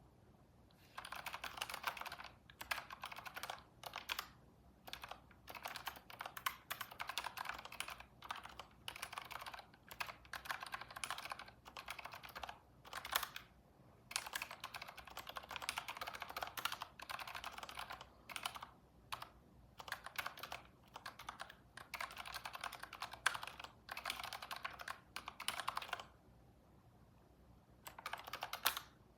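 Computer keyboard typing in quick runs of keystrokes broken by short pauses, with a longer pause near the end.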